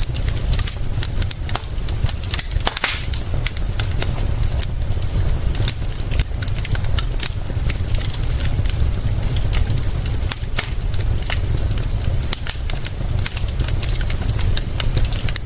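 Wood fire crackling with frequent sharp pops, one louder snap about three seconds in, over a steady low rumble and the even hiss of rain.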